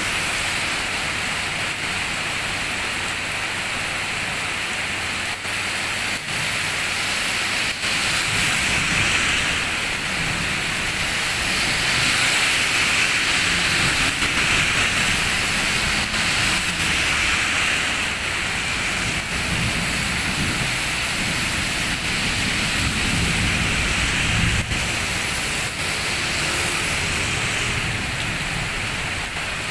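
Heavy rain falling steadily on the road and the shop's wet forecourt. A truck passes on the wet road in the middle, a low rumble that swells and fades under the rain.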